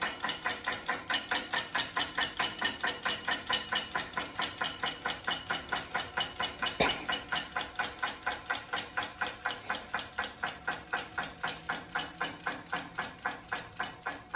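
A mechanism clicking rapidly and evenly, about four or five clicks a second, with one sharper knock about seven seconds in.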